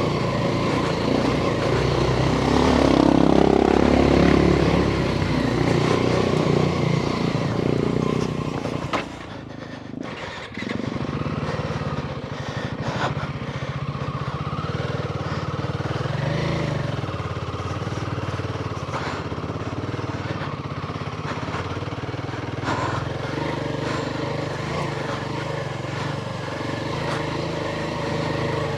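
Royal Enfield Himalayan 450's single-cylinder engine running under throttle, louder for the first several seconds. It drops away briefly about nine to ten seconds in, then runs steadily at a lower level.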